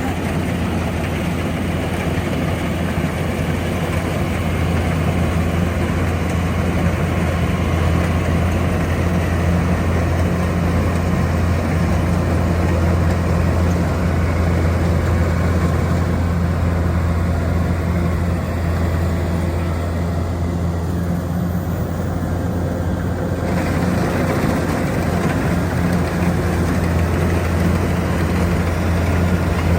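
Rice combine harvester's engine running steadily, with a deep continuous hum.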